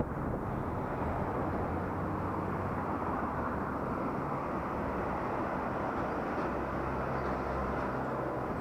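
Steady rush of riding wind on a helmet-mounted action camera's microphone, with a low steady hum of the ride underneath.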